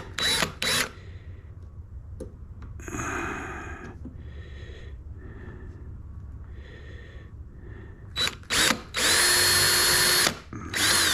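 Power drill-driver driving screws into 2x4 lumber: several quick trigger bursts at the start, then a few short pulses followed by a longer steady run about nine seconds in as a screw is driven home, and another short burst at the end.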